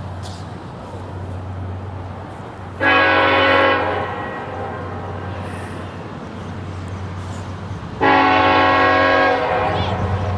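Norfolk Southern freight locomotive sounding its multi-chime air horn in two blasts, about a second and a second and a half long, several seconds apart, over the steady rumble of the approaching train.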